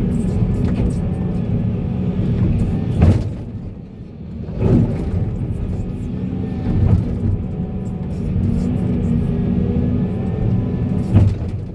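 Volvo excavator's diesel engine running steadily under load, with a few heavy knocks, and a brief drop in engine level about four seconds in.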